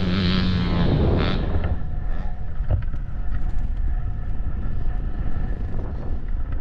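Wind buffeting the microphone over a low motorcycle rumble, with a steady engine note that stops about a second in.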